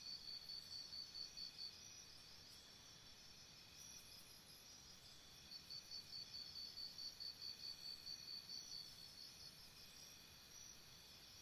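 Faint cricket chirping in a steady, even rhythm of about four or five high chirps a second. It breaks off about a second and a half in and starts again around the middle, over a faint outdoor hiss.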